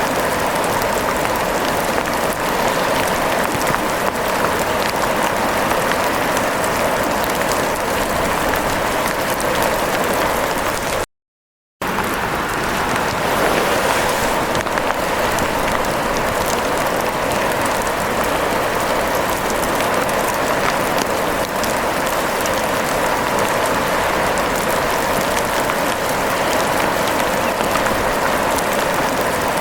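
Steady rain, an even hiss scattered with fine drop ticks; it cuts out completely for under a second about eleven seconds in.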